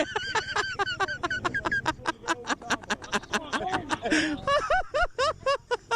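Several people laughing hard in quick, repeated bursts of rising-and-falling voice, with a low engine hum underneath.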